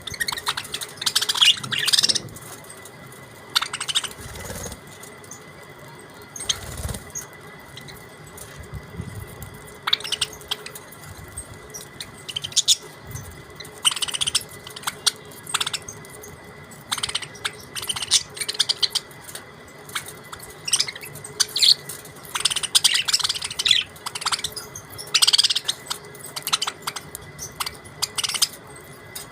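Budgerigars chirping and chattering in short bursts every few seconds, with a faint steady tone underneath.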